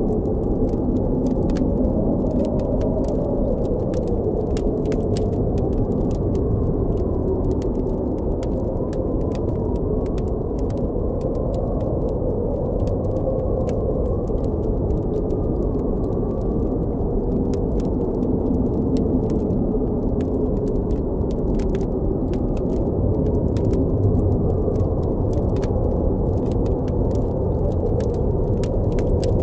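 Blizzard wind blowing steadily with a deep rush and a faint wavering howl, while a campfire crackles and pops throughout in frequent sharp snaps.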